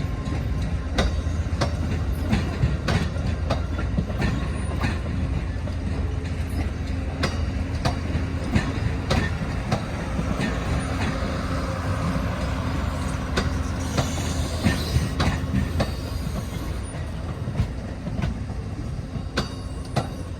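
Amtrak passenger train running on the rails: a steady low rumble with the wheels clicking over rail joints every second or so.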